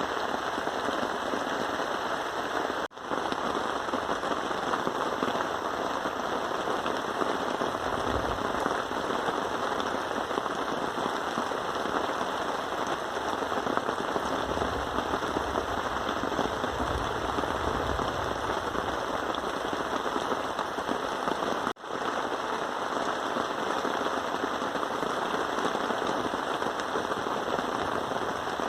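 Steady heavy rain pattering. It cuts out sharply for an instant twice, about 3 seconds in and again past the middle.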